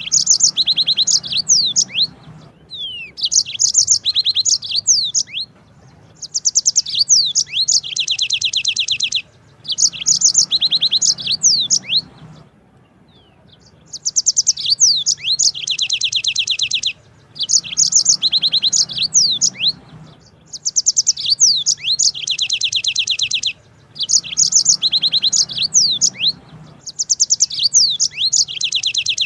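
Yellow-fronted canary (Mozambique canary) singing in repeated long phrases of rapid high trills mixed with quick down-slurred whistles. There are about nine phrases, each two to three seconds long, separated by short pauses, with one longer pause about twelve seconds in.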